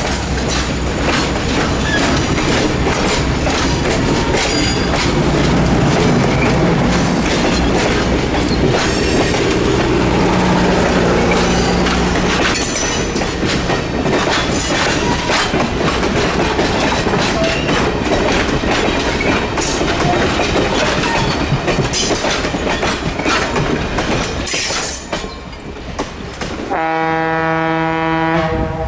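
Passenger coaches rolling past close by, their steel wheels clicking steadily over the rail joints with a rumble. Near the end a train horn sounds a long, steady note.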